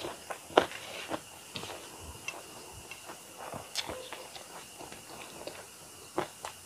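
Close-up mouth sounds of chewing a mouthful of food, with the light clicks and scrapes of fingers gathering rice on a stainless steel plate. A few sharp clicks stand out, the loudest about half a second in.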